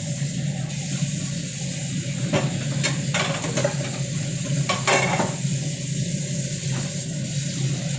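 A pot of soup on the stove with a steady hiss, with a few short scrapes and clinks of a utensil against the pot about two to three seconds in and again around five seconds in.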